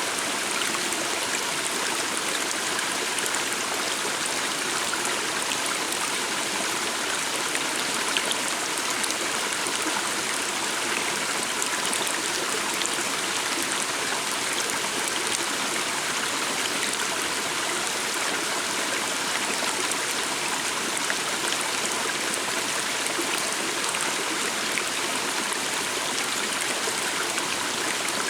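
Steady flow of a forest stream, an even rush of water over stones.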